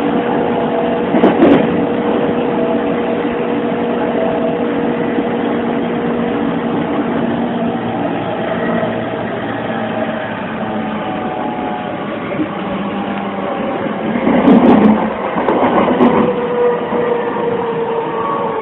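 Interior running sound of an E231-1000 series electric train: the Mitsubishi VVVF inverter and traction motors whine in several steady tones over wheel and rail noise, with the tones stepping in pitch as the train slows for its station stop. A few louder clunks from the wheels and bogies come about three quarters of the way through.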